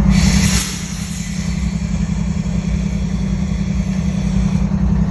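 An engine idling steadily with a low rumble. A short hiss of air sounds during the first half-second.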